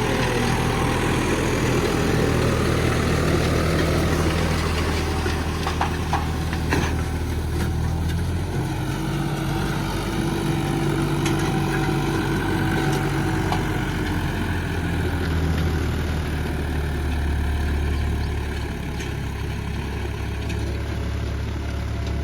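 John Deere 5405 tractor's diesel engine running steadily while working a disc harrow. Its low note drops about eight seconds in and comes back up around fifteen seconds.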